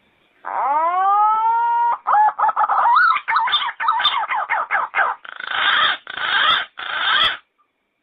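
Yellow-footed green pigeon singing: one long whistled note that rises and then holds, followed by a quick run of wavering, warbling notes and three rougher, harsher notes near the end.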